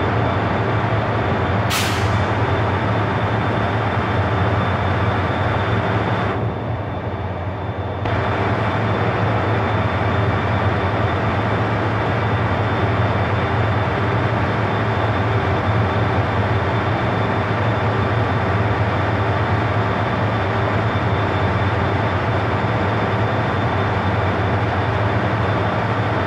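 A stationary KTX-I high-speed train humming steadily from its onboard equipment, with a low drone and a thin high whine while it waits to depart. There is a short sharp hiss of air about two seconds in. Around six seconds in, the higher part of the hum drops away for a second or so, then comes back.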